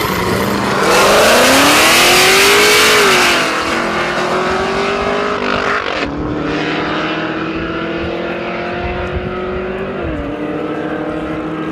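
High-performance car engine accelerating hard. Its pitch climbs steeply early on, with a loud noisy rush, then rises slowly with pitch drops about six and ten seconds in, like upshifts.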